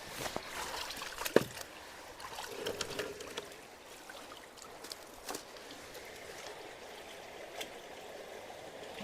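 Water running and trickling through a roadside culvert just cleared of a large piece of debris. There is a sharp knock about a second and a half in, and a few fainter clicks later.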